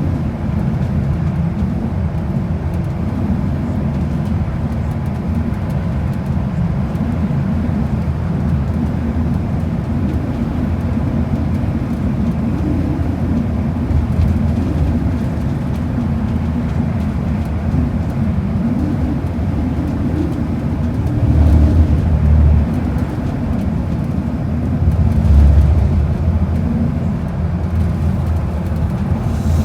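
Transit bus running at speed, a steady low rumble of engine and road noise heard from inside the cabin, with two brief louder low swells about two-thirds of the way through.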